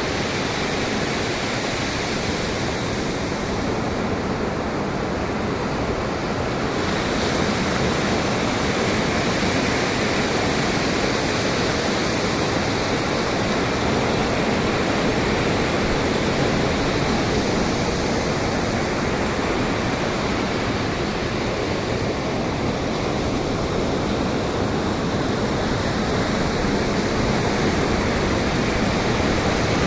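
Pacific Ocean surf washing steadily, with wind, as one continuous rushing noise that grows a little louder about seven seconds in.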